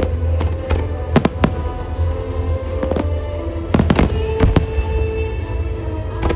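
Firework shells bursting in a music-synchronised starmine: sharp bangs and cracks, a pair about a second in, one near three seconds and a quick cluster around four seconds, over loud music from the show's loudspeakers.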